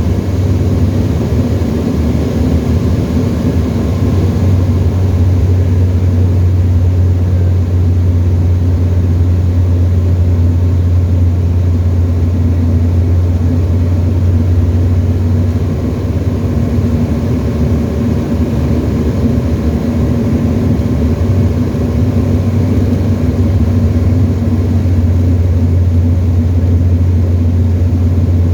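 Tecnam ultralight's piston engine and propeller running at a steady cruise setting, heard from inside the cockpit as a loud, even drone with a deep hum.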